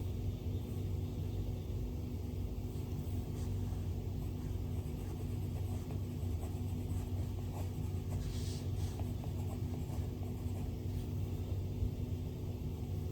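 A steady low hum and rumble, with faint taps and a short scratchy stroke of an Apple Pencil tip on the iPad's glass screen about eight and a half seconds in.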